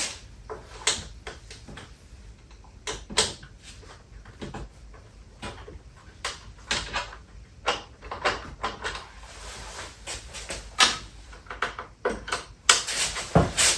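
Irregular clicks, knocks and light rustles of hands working on the 3D printer and its packing with an Allen key, undoing the shipping fixings, with a few sharper knocks scattered through.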